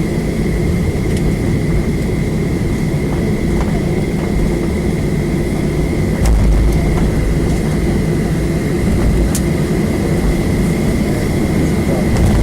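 Boeing 737 cabin noise on the ground: a steady low rumble of the idling jet engines and cabin air, with a thin steady high whine. The rumble swells briefly about six seconds in.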